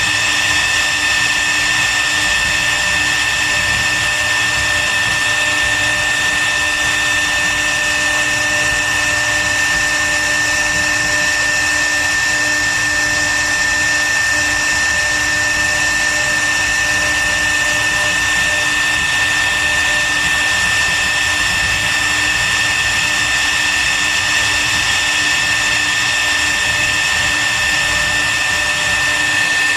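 CNC router spindle running at a steady speed with an unbroken whine while carving wood.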